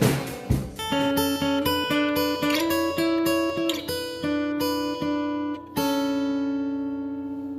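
Acoustic guitar playing a short phrase of picked single notes after a few sharp hits at the start, ending on a chord that is left to ring and slowly fades.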